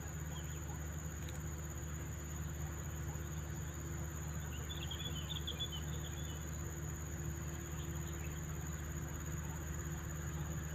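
Steady high-pitched insect drone from crickets or cicadas over a low steady rumble. About halfway through comes a brief flurry of high twittering chirps from the birds feeding on the insects.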